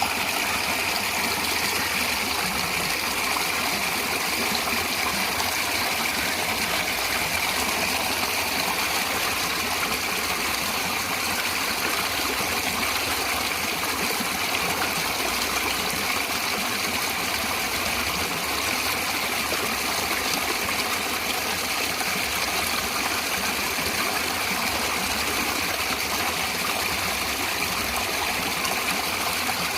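Natural running water flowing steadily: an even, unbroken rushing sound that stays the same throughout.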